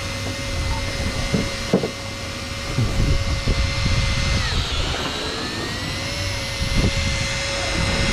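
Electric fishing reel's motor whining steadily as it winds in line, its pitch dropping sharply about halfway through as it comes under load, then climbing back, over a low engine rumble.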